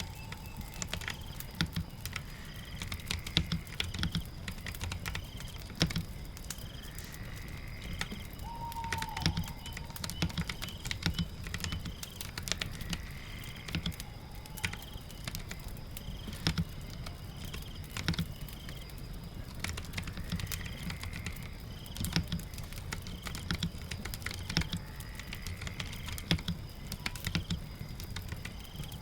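Typing on a keyboard, irregular key clicks in quick runs, over a steady background of rain.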